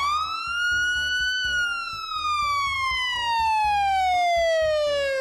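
Fire engine siren wailing: one wind-up rising in pitch over about a second and a half, then a long, slow fall in pitch.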